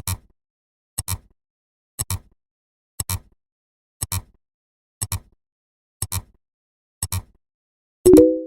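Ticking sound effect, a short double click once a second like a clock, with a brief low pitched beep of a few tones near the end, one of which comes every ten ticks.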